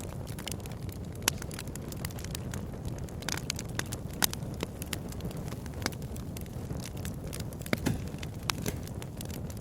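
Wood bonfire burning, with irregular sharp crackles and pops over a steady low rumble; a few pops stand out louder, about a second in, around four seconds in, and near eight seconds.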